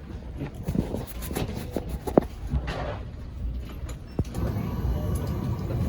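Airliner cabin noise: a steady low rumble with scattered clicks and knocks, two sharper knocks about two and four seconds in.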